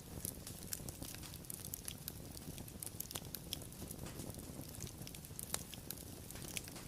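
Wood fire burning with irregular sharp crackles and pops over a low rumble of flames.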